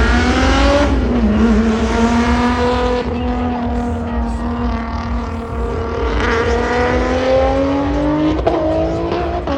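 Car engine at high revs, as at a roll race: its pitch climbs in the first second, holds steady for several seconds, then climbs again near the end, over a heavy low rumble.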